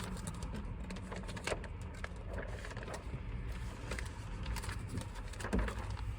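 Window tint film being handled, giving irregular light crackles and ticks, over a steady low hum.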